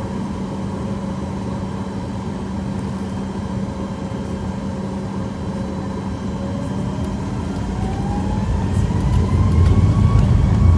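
Jet airliner engines running with a steady hum, then spooling up: a whine rises in pitch and the sound grows louder over the last few seconds, as thrust builds for the takeoff roll.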